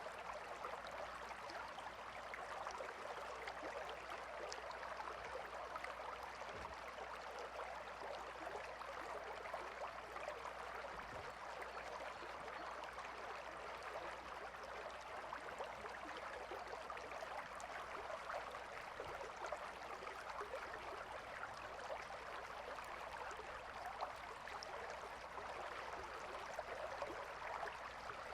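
A calm river flowing: a steady, unchanging rush of babbling water.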